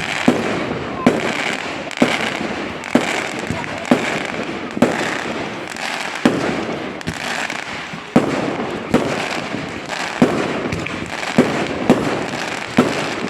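Fireworks display: sharp bangs about once a second, with a steady crackle and hiss between them.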